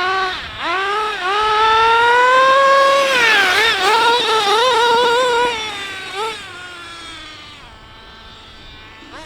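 Small nitro engine of a Team C Stoke N RC car revving hard: its high-pitched note climbs for about three seconds, blips up and down several times, then falls away and fades after about six seconds to a quieter, lower note.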